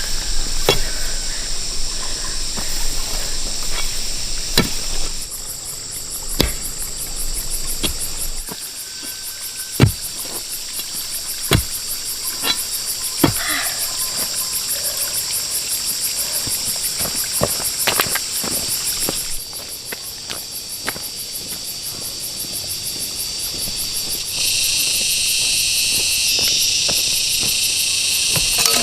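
A steady chorus of insects chirring, with a louder, fuller chorus joining about 24 seconds in. Occasional sharp knocks and taps sound through it, a few seconds apart.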